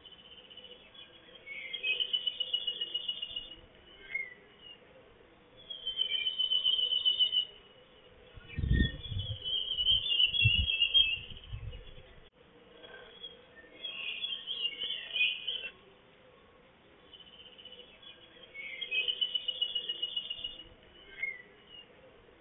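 A songbird singing five high phrases, one every few seconds, each a rapid trill of repeated notes lasting one to two seconds. A low rumble comes in about nine seconds in and lasts around three seconds.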